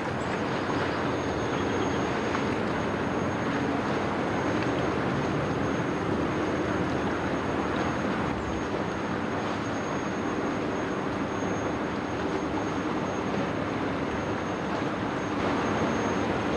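Inland motor ship's diesel engine running steadily as the vessel passes: a low drone under a rushing noise, with a faint steady high whistle. It gets a little louder near the end.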